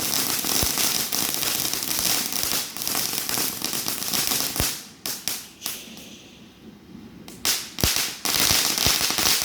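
Consumer fireworks crackling and popping in dense rapid bursts. The crackle eases off about five seconds in, then several sharp bangs and renewed heavy crackling come near the end.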